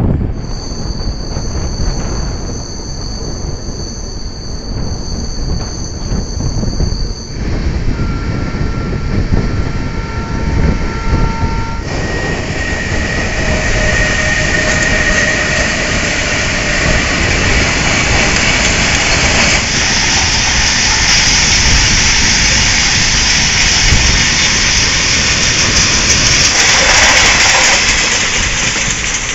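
Indian passenger train running on a curve, its wheels squealing in two steady high tones over the rumble of the coaches. After a cut, an electric freight locomotive and a long rake of freight wagons pass close by, with loud, dense wheel-on-rail rumble and clatter.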